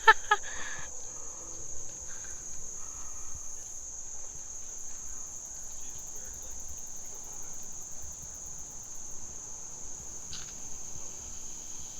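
Steady, high-pitched insect chorus with one unbroken band of trilling. There is a faint click about ten seconds in.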